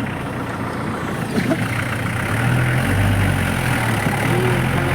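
Old jeep's engine running as it drives, heard from on board, its low note shifting in pitch a couple of times.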